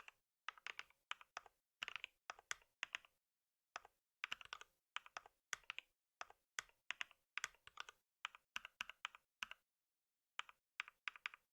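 Typing on a computer keyboard: quick runs of keystrokes in short bursts, pausing briefly about three seconds in and again near the end.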